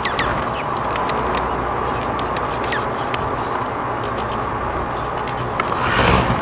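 Outdoor ambience with small birds: a few short, falling chirps and many light scattered ticks and taps over a steady background hiss, with a brief rustle near the end.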